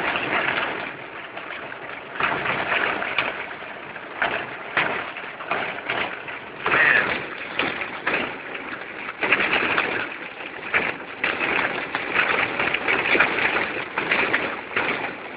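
Rain and wet-road noise heard inside a moving car in a storm, swelling and fading every second or two, with a brief falling squeak about seven seconds in.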